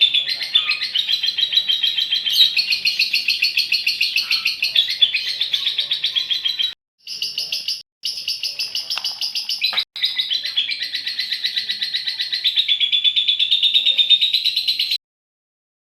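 Female lovebird giving its long, rapid chattering trill (the 'ngekek panjang'), high-pitched and continuous. It is broken by a few brief clean cut-outs and stops abruptly about a second before the end.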